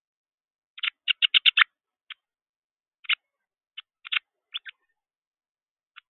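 A fledgling songbird, which the uploader takes for a juvenile Carolina wren, giving short begging calls: a fast run of about six about a second in, then single and paired calls spread through the rest.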